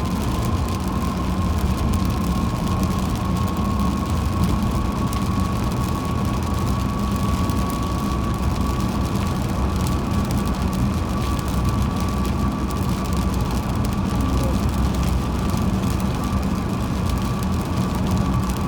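Steady road noise of a car driving on a rain-wet highway: a dense low rumble of tyres and engine with a hiss over it. A thin, steady whine sits above it, drifting slightly higher.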